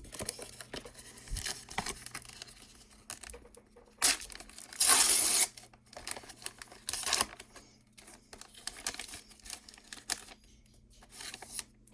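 Sealed hockey card pack being torn open: two loud rips about four and five seconds in, with crinkling of the wrapper and shuffling of cards around them.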